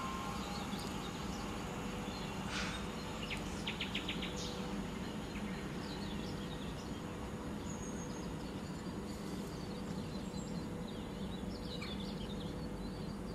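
Quiet outdoor ambience: scattered bird chirps and calls over a steady low background rumble, with a quick run of ticking notes about three to four seconds in.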